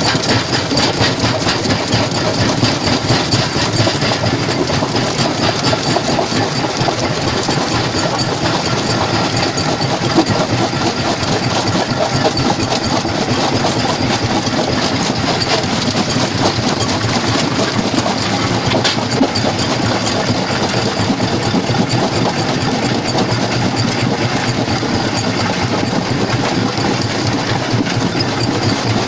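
Stone jaw crusher running, a steady, dense clatter and rumble of rock being crushed, with one sharper knock about ten seconds in.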